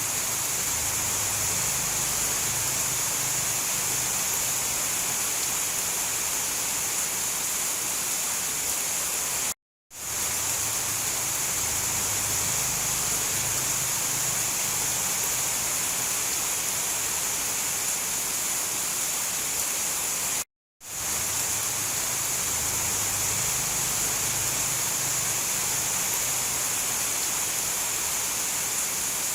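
Steady heavy rain, an even hiss brightest at the high end with a faint low rumble beneath. It drops to dead silence for a split second twice, about a third and two-thirds of the way through.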